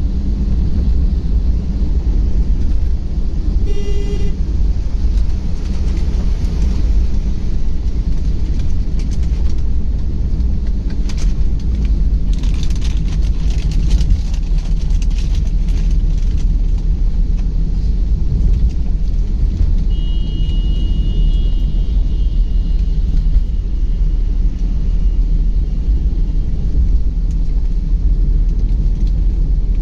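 Car on the move, with a steady low road rumble. A short horn toot sounds about four seconds in, and a thin high tone is held for a few seconds about two-thirds of the way through.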